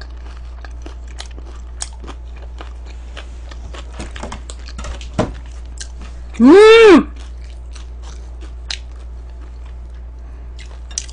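Close-up chewing and crisp crunching of fried chicken, with scattered sharp crunches. About six seconds in, a loud half-second tone swoops up and back down.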